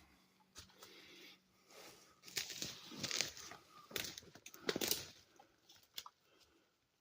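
Footsteps crunching and rustling through ground litter and brush on a steep climb, in a few quick bursts between about two and five seconds in.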